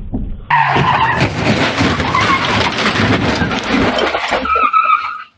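A car skidding, its tyres squealing on the road over engine noise, loud, then cutting off abruptly near the end.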